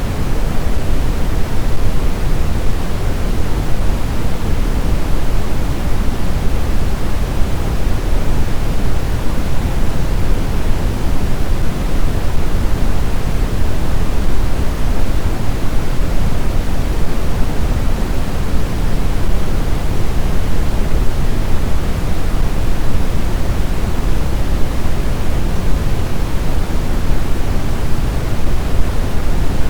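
Steady snowstorm wind noise: a dense, even rumble heavy in the low end, with no gusts, howls or changes.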